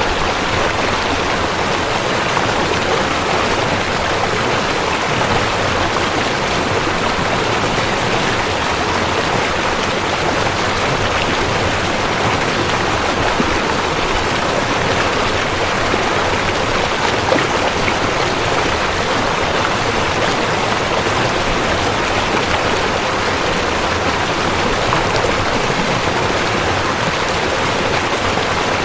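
River water flowing: a steady, even rush of water with no breaks.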